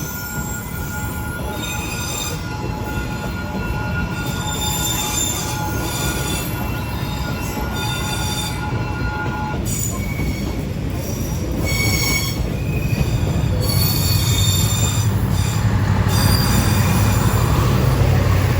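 Passenger train rolling past with wheel squeal: short high-pitched squeals come and go over a steady rumble. A steady whine stops about halfway through, and the rumble grows louder over the last few seconds.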